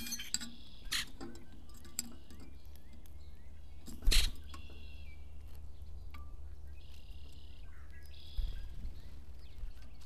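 Small backyard birds chirping with short sharp chip notes, and two longer, harsher calls near the end. A loud sharp knock comes about four seconds in, over a steady low background rumble.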